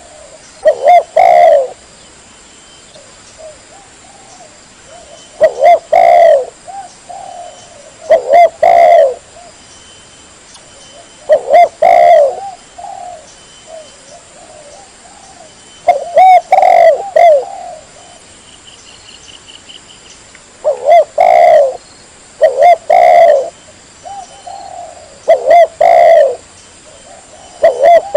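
Spotted dove (tekukur) cooing: loud, clear phrases of several coos, repeated every few seconds with short pauses between, the kind of call used to lure wild doves.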